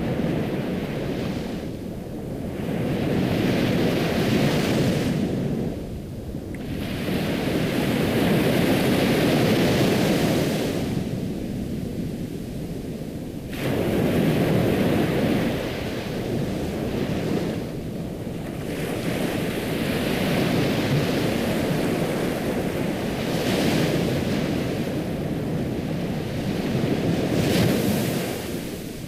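Ocean waves breaking and washing up the shore, the surf swelling and falling back in about six surges, each a few seconds long.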